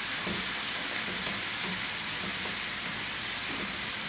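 Chicken hearts sizzling steadily in hot oil in a non-stick frying pan while a wooden spatula stirs them.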